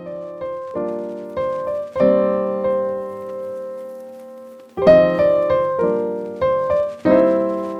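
Intro music: piano notes played in short phrases, each note ringing and fading, with a pause about halfway through before a new phrase begins.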